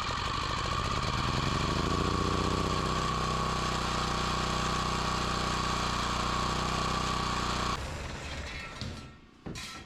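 A motor spins up over about two seconds, then runs at a steady speed with a steady high tone above it, and cuts off sharply near the end.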